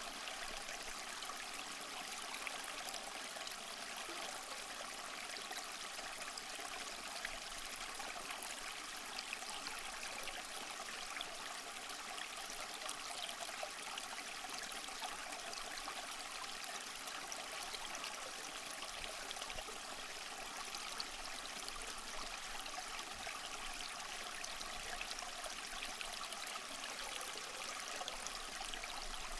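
A small waterfall running steadily over mossy rock: an even splashing and trickling of water with no change in level.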